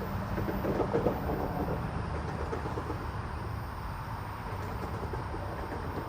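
Train running on the tracks: a steady low rumble with rapid clicking and rattling of wheels and cars, loudest about a second in, then easing a little.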